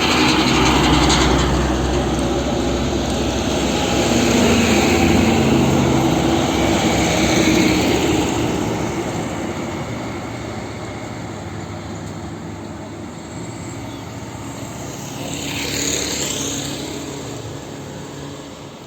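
A heavy vehicle passes close by, with a loud low engine rumble and tyre noise that fades away after about eight seconds. A second vehicle goes past about sixteen seconds in.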